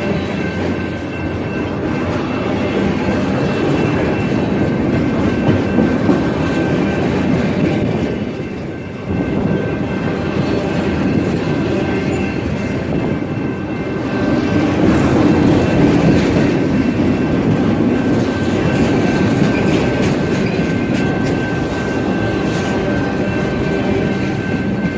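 Freight train of autorack cars rolling past at close range: a steady loud rumble of steel wheels on rail with clacking, and a thin steady high tone over it. It dips briefly about eight seconds in and swells again a little after the middle.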